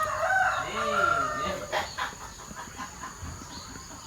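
A rooster crowing once: one long held call in the first second and a half.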